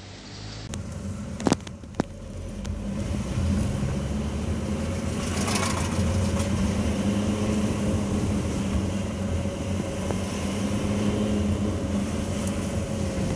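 Cabin sound of a 2015 Maruti Swift Dzire VDI on the move: steady engine and road hum from its 1.3-litre diesel, with two sharp clicks about a second and a half and two seconds in.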